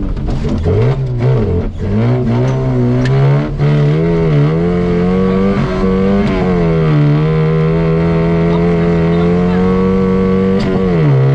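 Off-road competition car's engine heard from inside the cabin, revving up and down for the first several seconds, then holding a steady speed, with a brief dip and rise near the end. A few sharp knocks cut through, about three seconds in and again near the end.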